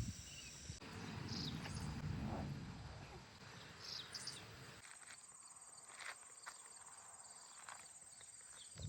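Outdoor walk: scattered footstep knocks and a low rumble, then a steady high insect trill, typical of crickets, from about five seconds in.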